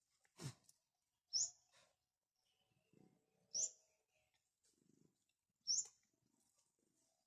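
A bird's short, high chirp, heard three times about two seconds apart, with fainter low rustling between.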